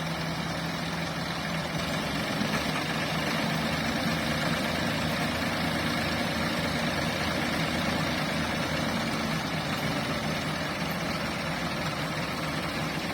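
Ford tractors' four-cylinder diesel engines running steadily under load, pulling hard on a stuck, loaded trolley, a little louder in the middle of the stretch.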